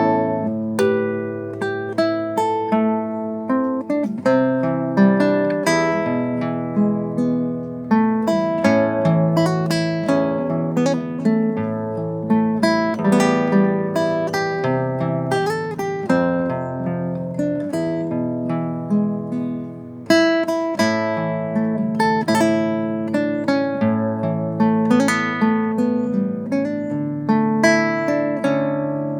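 Acoustic guitar played solo: a melody of plucked notes over a bass line, with a short pause about two-thirds of the way through.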